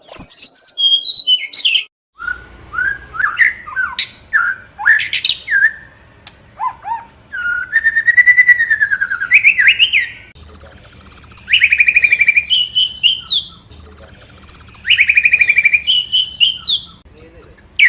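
White-rumped shama (murai batu) singing loudly: a varied run of rich whistled slurs mixed with fast, buzzy rattling trills, in phrases of a second or two. The song breaks off briefly about two seconds in, then carries on.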